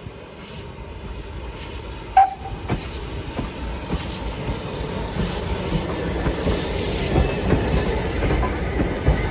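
A train approaching at speed on plain line, its rumble growing steadily louder, with the wheels knocking over rail joints. There is one brief, sharp, high sound about two seconds in.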